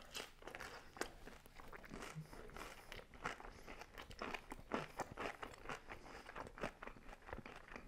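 A person chewing a mouthful of crispy thin-crust pizza with the mouth closed: faint, irregular crunches and small mouth sounds.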